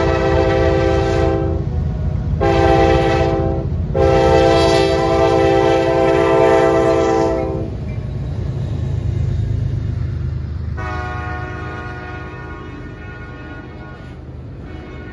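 Freight train's diesel locomotive horn blowing a series of blasts: one ending about a second and a half in, a short one, a longer one to nearly eight seconds, then a quieter one from about eleven seconds on, over the steady low rumble of the locomotive and train rolling past. The rumble fades toward the end.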